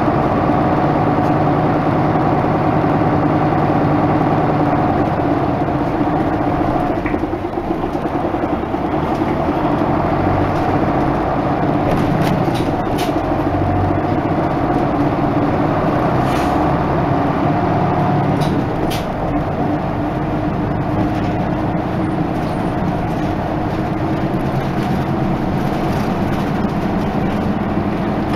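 Isuzu Erga Mio bus running under way, its diesel engine note steady but shifting in pitch about eight seconds in and again about two-thirds of the way through, as with gear changes. A few short clicks or rattles come through in the middle.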